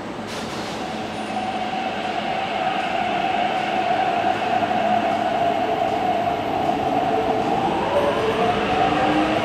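Metro train running, its noise building over the first few seconds, with a steady whine throughout and motor tones that slide in pitch near the end.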